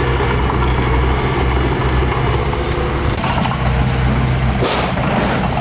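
Heavy diesel engine of earthmoving machinery running steadily, with a short burst of noise about five seconds in.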